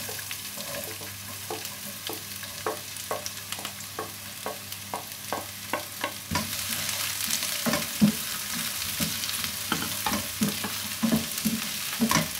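Sautéing in a frying pan: food sizzling in hot oil while a spatula stirs it, knocking against the pan about twice a second. The sizzle grows louder about halfway through.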